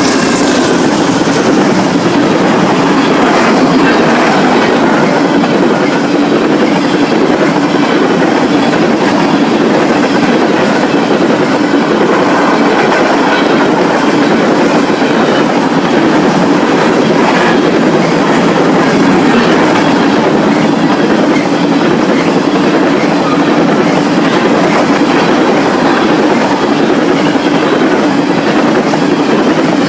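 A train rolling past, loud and steady, its cars' wheels clacking over the rail joints.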